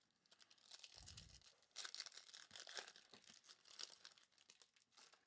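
Foil wrapper of a Bowman Chrome baseball card pack being torn open and crinkled, with faint crackling and ticking as the cards are handled. There is a soft low thump about a second in.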